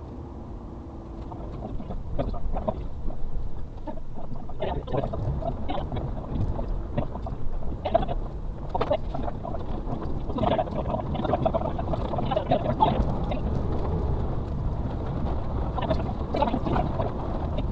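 Suzuki Carry kei truck's 660cc engine running under load as it drives over rough forest ground, heard from inside the cab, with frequent knocks and rattles from the body and suspension.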